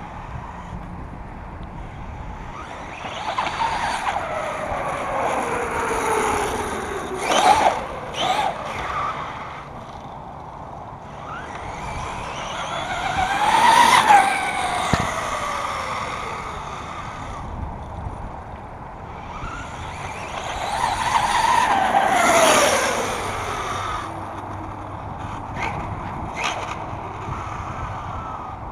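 1/5-scale Redcat Rampage monster truck on 8S electric power ripping past three times, its motor and drivetrain whine rising and falling in pitch with speed. The first pass has a couple of sharp clattering knocks.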